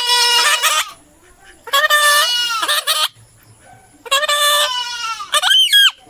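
A bird calling loudly and harshly, four calls about a second apart, the last one sliding in pitch.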